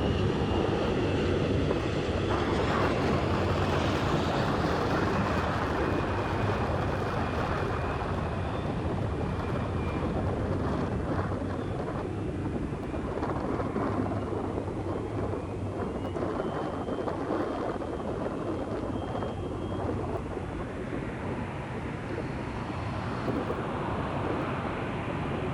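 Jet airliner engine noise near the runway: a steady rumble with a faint high whine, loudest at first and easing off slowly.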